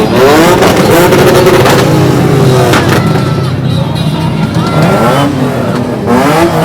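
Car engines revving hard again and again, their pitch climbing and falling, over a steady low engine drone. A few sharp cracks cut through.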